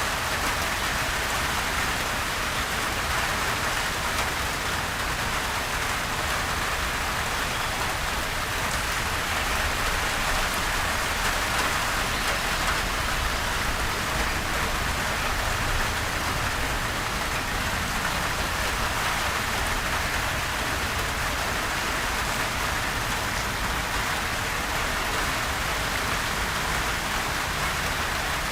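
Steady rain falling on a surface, an even hiss of many drops with no thunder and no change in intensity.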